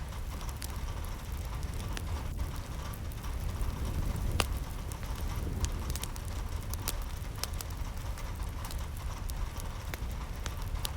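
Rain falling, with many scattered sharp drop impacts over a steady low rumble.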